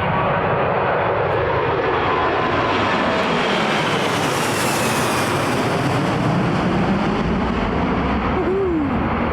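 Jet noise from an Airbus A340-300's four CFM56 engines at takeoff power: a loud, steady roar whose high hiss grows brighter about halfway through, then eases off.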